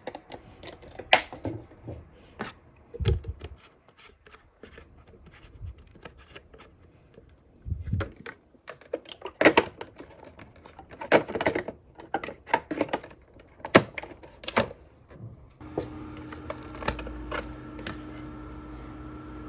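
Plastic clicks and knocks from handling a mini fan humidifier, then about three-quarters of the way through the unit switches on and runs with a steady hum.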